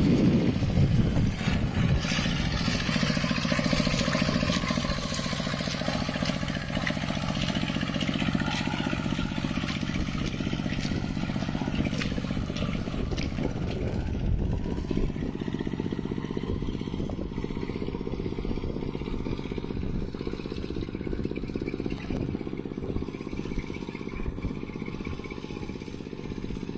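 Mini tractor's engine running steadily under load while plowing mud, with clatter from the machine. The higher, rattly part of the sound thins out about halfway through.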